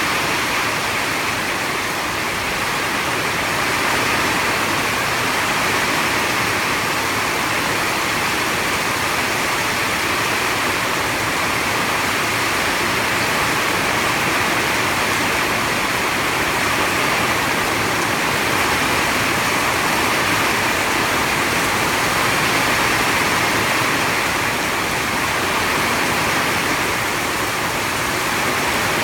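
Heavy storm rain pouring down steadily, an even, unbroken hiss.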